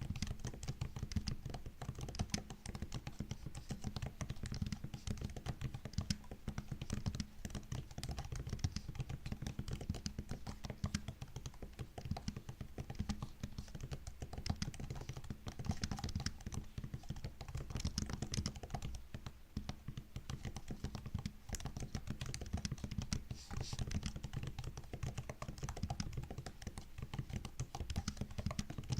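Continuous typing on a MacBook laptop keyboard: a steady stream of quick, soft key clicks with no real pauses.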